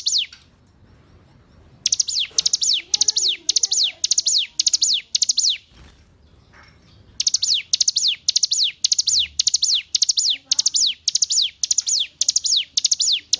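Hill prinia (ciblek gunung) singing: fast, loud series of high notes that each fall sharply in pitch, repeated about two times a second in long bouts, with two short breaks of about a second and a half.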